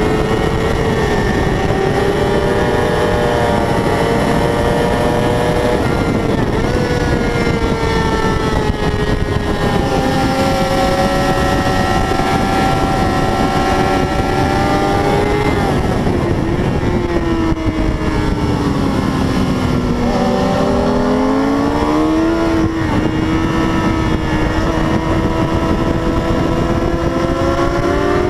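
A 600 cc racing motorcycle engine at high revs, heard from on board over heavy wind rush. The engine note holds high, drops sharply about twenty seconds in as the bike slows for a corner, then climbs again under acceleration.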